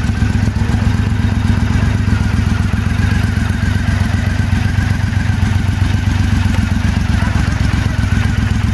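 2012 Triumph Speedmaster's 865cc parallel-twin engine with a 270-degree firing interval, idling steadily at about 1000–1200 RPM through a British Customs Bomber exhaust. It has a deep, even, loping pulse and no revving.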